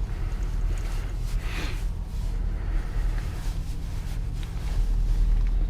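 Nissan Rogue SUV running, heard from inside the cabin as a steady low rumble and hum that grows louder near the end.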